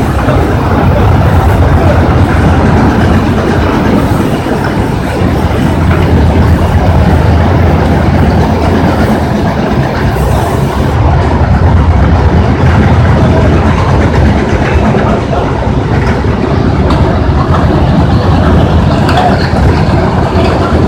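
Stone crusher running: a loud, steady rumble with a dense rattling clatter over it.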